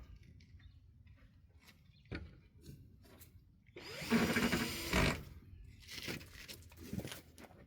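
Cordless drill-driver running for about a second, a little under halfway through, driving a screw into pallet wood. Scattered knocks and handling clatter of the wood and tools come before and after it.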